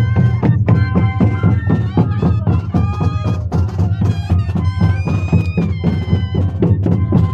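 A moseñada ensemble playing: a group of large Andean duct flutes (moseños) sounding a stepwise melody together over steady, frequent drum beats.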